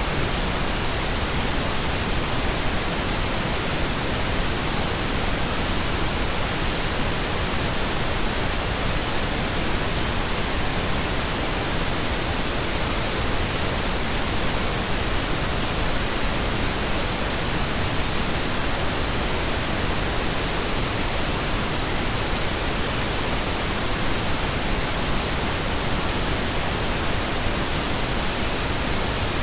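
Synthetic pink noise: a steady, even hiss across the whole range, with no changes or events.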